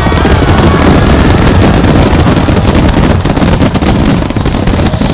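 Fireworks finale barrage: loud, dense bursts and crackles following one another so quickly that they merge into a continuous rumble.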